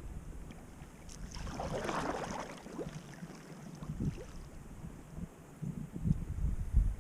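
Wind rumbling on the microphone, with uneven low thumps and a brief rushing swish about two seconds in.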